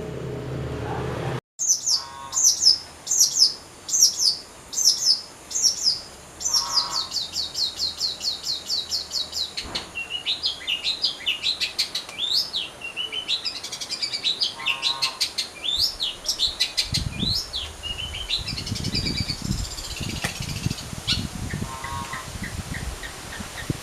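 Long-tailed shrike (cendet) song used as a lure call. It opens with a string of loud, harsh notes, each sweeping quickly downward, then runs into a fast even rattle of notes and goes on with varied chirps. Low rumbling knocks sound underneath in the later part.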